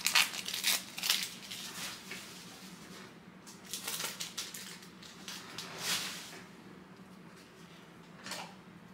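A trading-card pack wrapper crinkling and tearing as it is opened, with dense rustling over the first couple of seconds and a few separate crinkles later.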